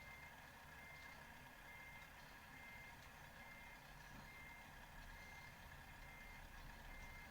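Reversing alarm beeping: a single high-pitched beep repeated about once a second, faint over a low steady vehicle rumble.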